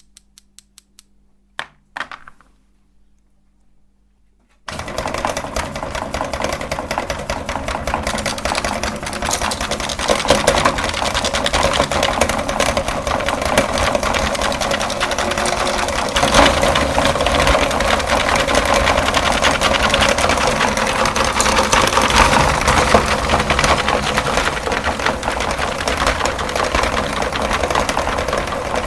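A few light clicks, then about five seconds in an electric meat grinder switches on abruptly and runs steadily with a dense crackle as colored chalk is ground through it.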